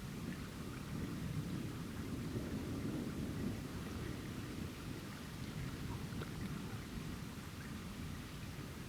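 Thunder rumbling low and long, swelling in the first few seconds and then easing, over a steady hiss of rain.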